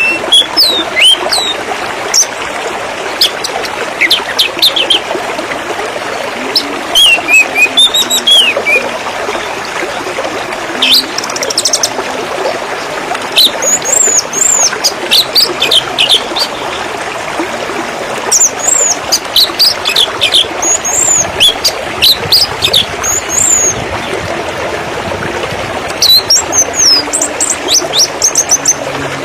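Small songbirds chirping and calling in repeated bursts of quick, high notes over the steady sound of trickling, splashing water.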